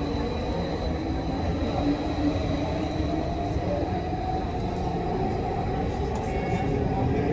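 Athens Metro Line 1 electric train running at speed, heard from inside the carriage: a steady rumble of wheels on the rails with a thin, steady high tone above it.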